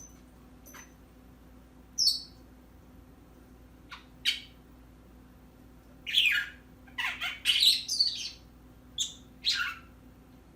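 A pet bird chirping and squawking in short calls. There are a few scattered calls at first, then a quicker run of chirps in the second half.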